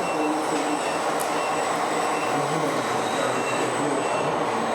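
Radio-controlled model trucks and construction machines running, a steady whirring and rumbling of their electric motors and gearboxes, with a short high beep repeating every half second or so.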